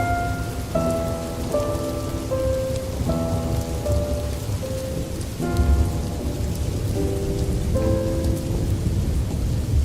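Steady rain with low rolling thunder, the rumble swelling about six seconds in, under a slow melody of single held notes, roughly one note a second.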